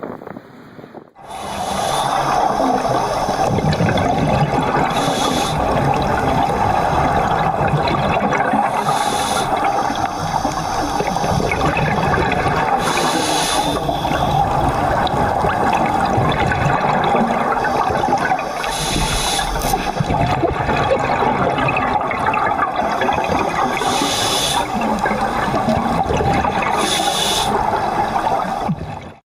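Loud water rushing and churning without pause, with a brief hissing surge every few seconds.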